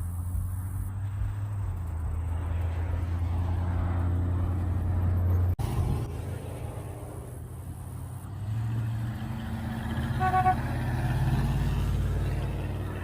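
Car engines running as cars pull out of a lot, a low steady rumble that swells toward the end. A car horn gives one short honk about ten seconds in.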